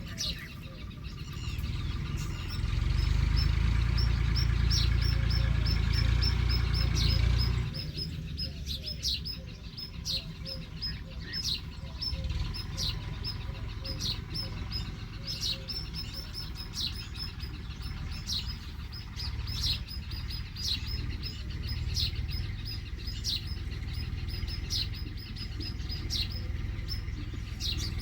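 Small birds chirping, with short high notes repeated one or two times a second throughout. A loud low rumble runs underneath for about five seconds near the start.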